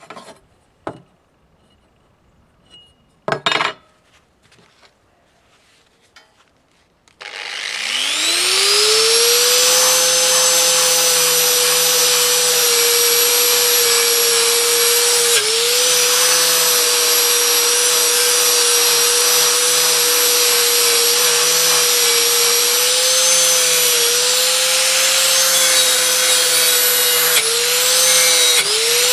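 An electric grinder fitted with a rotating brush or polishing wheel starts with a few knocks before it, spins up with a rising whine, then runs at a steady high speed, its pitch dipping briefly a few times.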